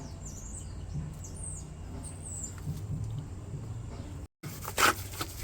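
Small birds chirping faintly over a steady low hum, then, after a brief dropout near the end, a short loud noise.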